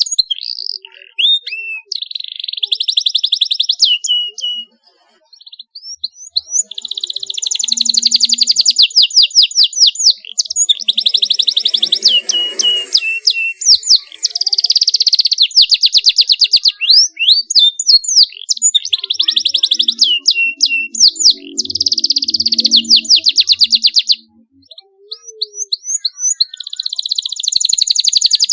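Domestic canary singing: fast rolling trills of high repeated notes in phrases several seconds long, with a short break about five seconds in and another near the end.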